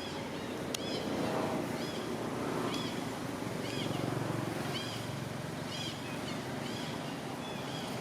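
Short high animal chirps, repeated about once a second, over a steady low rumble.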